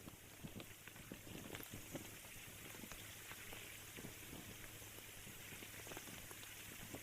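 Rain falling, faint, with many small drop ticks scattered through it and a steady low hum underneath.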